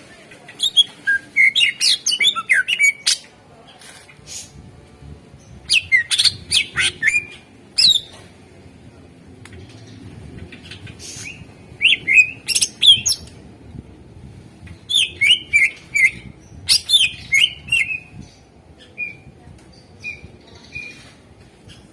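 Cucak ijo (green leafbird) singing in four bursts of rapid, sharp, sliding notes with pauses of a few seconds between them, then a few short single notes near the end.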